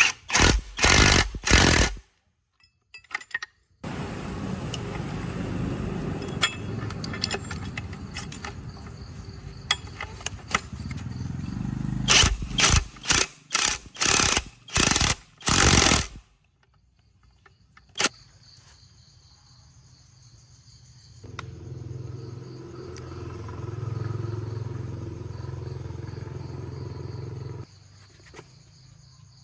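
Truck repair work: a quick series of loud sharp knocks, then a stretch of steady mechanical noise, then another burst of rapid knocks. Later a low steady engine hum runs for several seconds while crickets chirp.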